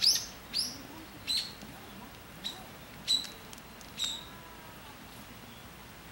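A bird calling outdoors: about six short, sharp, high chirps, each dropping in pitch, spaced unevenly over the first four seconds, then stopping.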